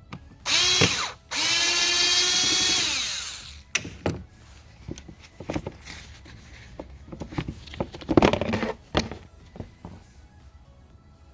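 A cordless drill/driver whirs in two bursts, the second about two seconds long and winding down at the end, as fasteners are worked during the air filter change. Scattered clicks and knocks follow, with a brief rattle of handling.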